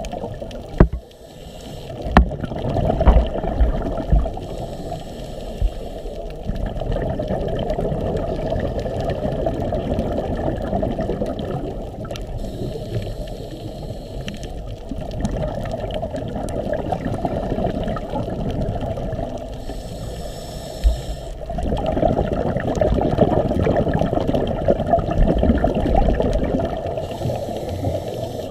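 Muffled water sloshing and churning, with a few sharp knocks in the first few seconds.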